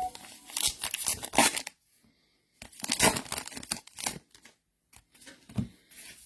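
Trading-card pack wrappers being torn open and crinkled by hand, in two bursts of rustling tearing with a pause between them.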